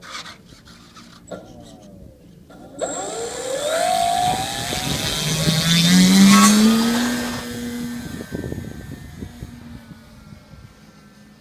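Electric motor and propeller of a radio-controlled Seagull Edge 540 model plane throttling up for its take-off roll. A rising whine starts about three seconds in and is loudest around six seconds in, then eases to a fainter, steady hum.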